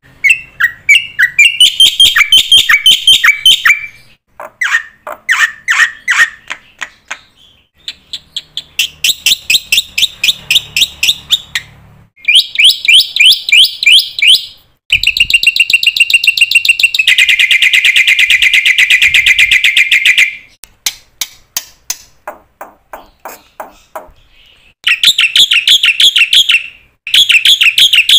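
A bird singing close by: a long, varied song of rapid high trills and chirping phrases separated by short pauses, with one longer, faster trill about halfway through.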